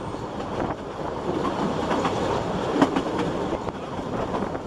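Narrow-gauge Ffestiniog Railway carriage running along the track, heard from its open window: a steady rumble and clatter of wheels on rails, with scattered clicks and one sharp clack about three seconds in.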